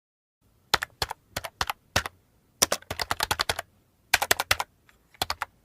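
Computer keyboard typing: sharp key clicks in quick, irregular runs, starting about half a second in after dead silence.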